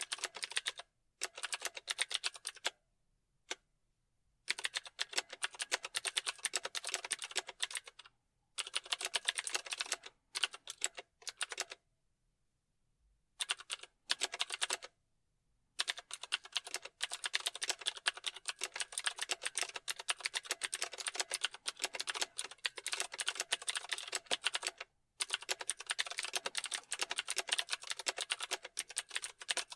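Typing on a computer keyboard: fast runs of keystroke clicks broken by short pauses, with two longer stops of a few seconds, one near the start and one about halfway through.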